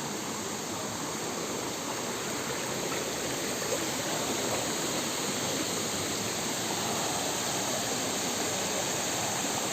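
Steady rush of flowing water from a stream or waterfall, an even noise with no breaks, growing slightly louder in the second half.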